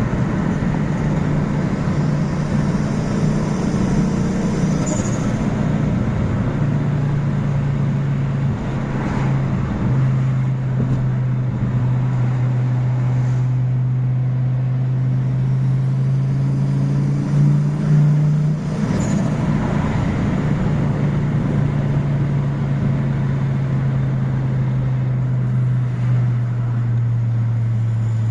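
Tuned, ethanol-fuelled Fiat Marea 2.0 20V turbo five-cylinder engine running under way. Its note climbs slowly for most of the time, drops sharply about two-thirds of the way through, then eases lower.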